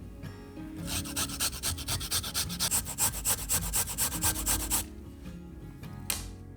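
Rapid back-and-forth rasping strokes of food being grated on a fine hand grater, several a second for nearly four seconds, then one more stroke near the end.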